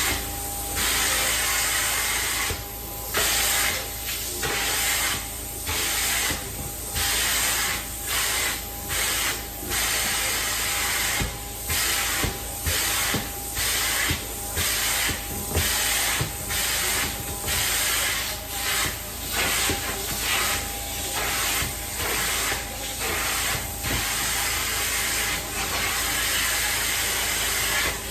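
Hot-water extraction cleaning wand hissing over steady machine hum, in repeated strokes of about a second each with brief breaks between, as the spray and suction start and stop with each pass.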